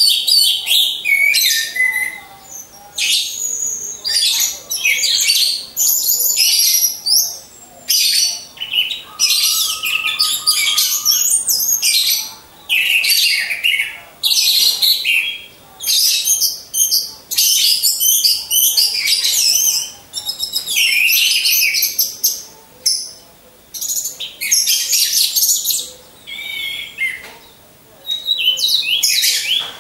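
Orange-headed thrush song: loud, varied phrases of rapid high whistles and chirps, each about one to two seconds long with short breaks between.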